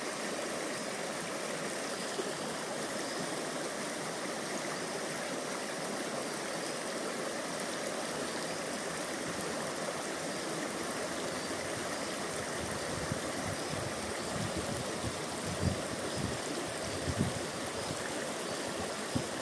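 River water flowing, a steady rush with no let-up. A few low thumps come in the last several seconds.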